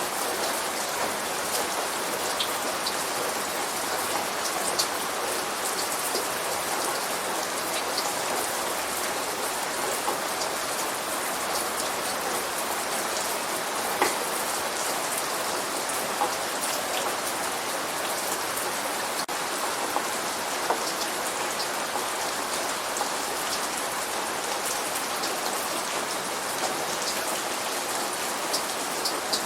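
Steady light rain falling, an even hiss with scattered sharp drop ticks.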